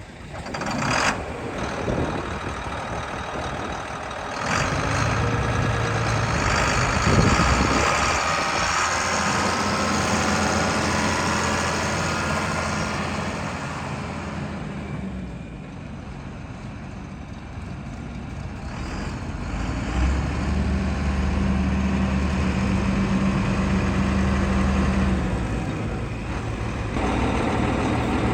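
John Deere 4960 tractor's six-cylinder diesel engine running, its pitch and loudness changing several times, with a quieter stretch midway.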